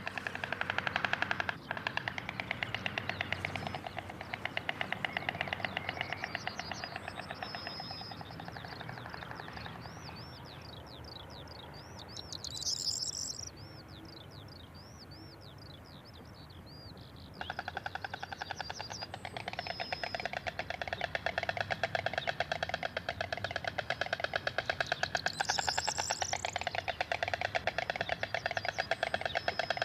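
White storks clattering their bills in the pair's mutual display: a rapid, rattling clatter that eases off partway through and comes back strongly about seventeen seconds in. High, thin chirps of another bird sound over it in the quieter middle stretch.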